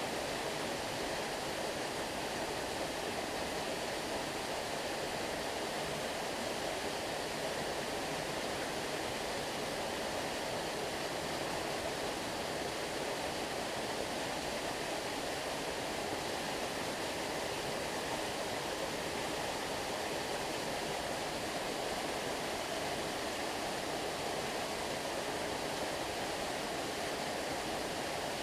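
Steady rush of flowing stream water, an even noise without distinct splashes or changes.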